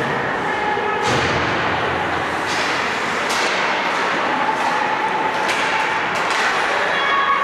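Ice hockey play on a rink: a steady wash of skate and rink noise with repeated sharp knocks and thuds from sticks, puck and boards.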